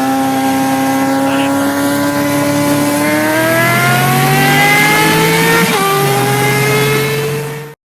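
A vehicle engine running hard at high revs, its pitch climbing slowly and then dropping sharply about two thirds of the way through, as in a gear change, before holding steady. It cuts off abruptly just before the end.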